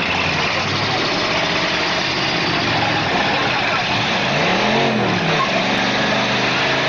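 Demolition derby car engines running, with one engine revving up and dropping back about four seconds in.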